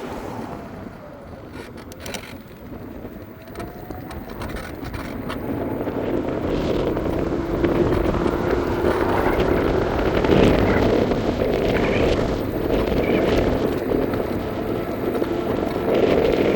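Wind rushing over the microphone and wheel-on-pavement rumble of a moving electric scooter, growing louder a few seconds in and then holding steady, with faint whining tones at times.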